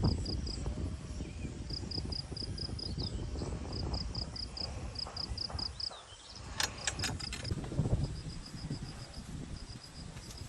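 Insects chirping in repeated short trains of rapid high pulses, over a steady low rumble that dips briefly about halfway through, with a few sharp clicks just after.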